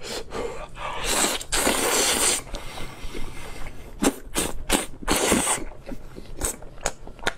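Close-miked eating sounds of a person chewing tofu skin: wet chewing clicks and smacks, with a longer sucking noise about a second in and a shorter one near five seconds.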